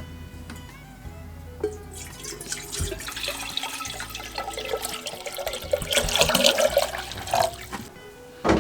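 Water running or being poured for about six seconds, starting about two seconds in, over soft background music.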